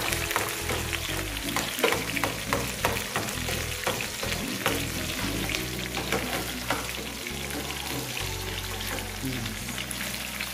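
Food sizzling as it fries in hot oil in a pan, with a utensil now and then clinking and scraping against the pan as it is stirred.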